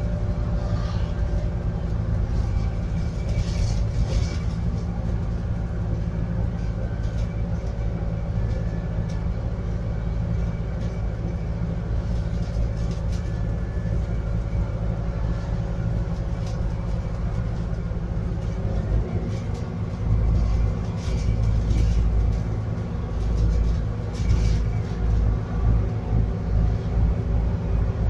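Scania N280UD double-decker bus's biogas engine running, heard from on board as a steady drone. About two-thirds of the way through, the engine note changes and a low, uneven throbbing takes over.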